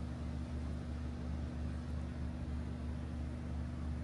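Car engine idling, a steady low hum that holds the same pitch throughout.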